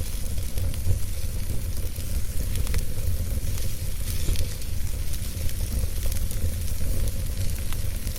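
Wood fire burning, with a steady low rumble and hiss and scattered small crackles and pops.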